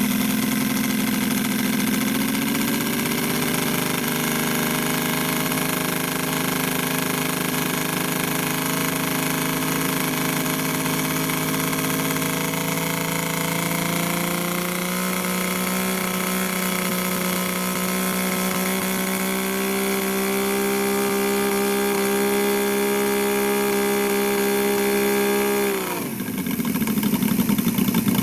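Saito three-cylinder radial gasoline engine of a model Zero fighter running at a steady high speed, its pitch edging up twice. Near the end the pitch falls sharply and the engine drops to a lower, rougher, pulsing beat.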